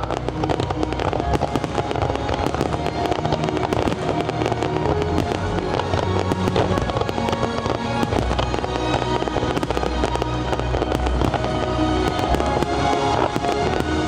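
Fireworks display going off: rapid, dense crackling and bangs throughout, over the show's loud music soundtrack.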